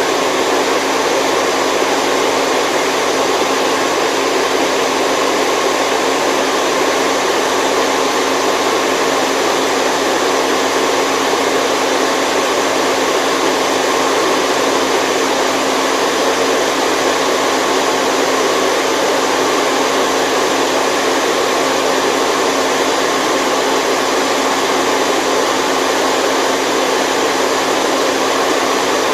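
Steady white noise played for a baby's sleep: a constant, even hiss that never rises, falls or breaks, fuller in the middle range than in the deep bass.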